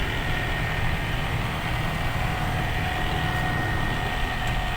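Truck engine running steadily under way, a low rumble with a faint steady whine above it.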